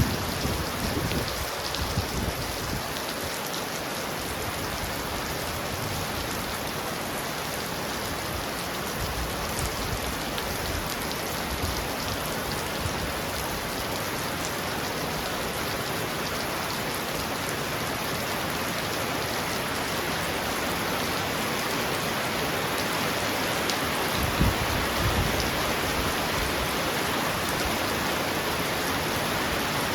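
Heavy rain pounding steadily on a roof, a dense even hiss, with brief low thunder rumbles in the first seconds and again about three-quarters of the way through.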